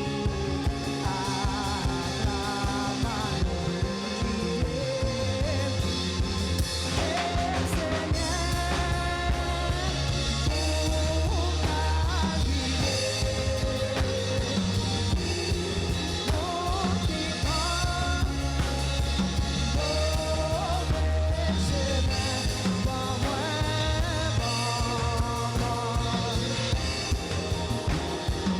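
Live worship band playing with drum kit and bass while voices sing a Haitian Creole hymn.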